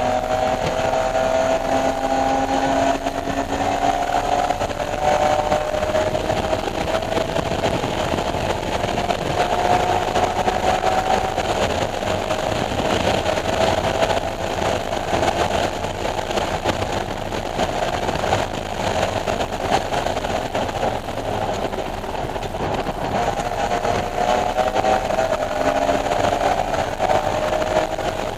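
BMW E46 M3's S54 straight-six engine running hard at speed, its pitch climbing slowly over several seconds at a time, over a steady rush of wind and road noise.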